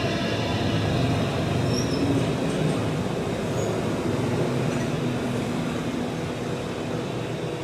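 Piper PA-28-181 single-engine piston plane flying by, its engine drone steady and easing off slightly toward the end.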